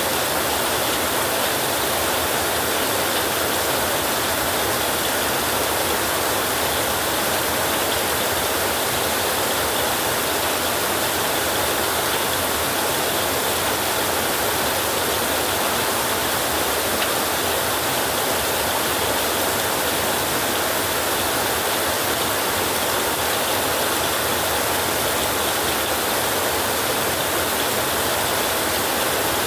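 Heavy rain falling on a roof, a steady dense hiss without a break or a thunderclap.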